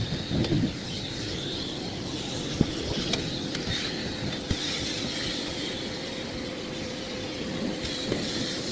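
Miele Blizzard CX1 bagless vacuum cleaner running steadily with a constant hum, with a few sharp knocks as the dusting brush tool meets surfaces.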